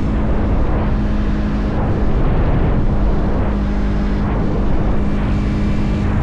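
Motorcycle engine running at a steady cruise, holding one even pitch, under a constant rush of wind and road noise.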